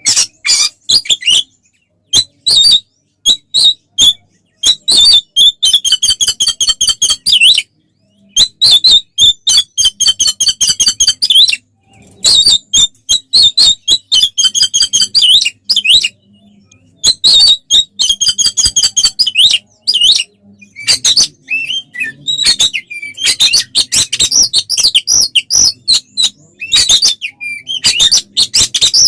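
Oriental magpie-robin (kacer) singing loudly in its agitated fighting song: runs of fast repeated chattering trills a few seconds long, broken by short gaps and separated by sharp single calls.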